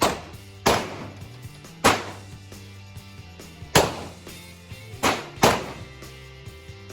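Six gunshots from a semi-automatic firearm being fired at irregular intervals, each a sharp crack with a short ringing tail; two come close together about five seconds in.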